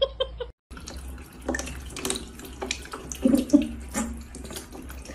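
Water running from a tap, splashing and dripping onto a cat and into a plastic basin.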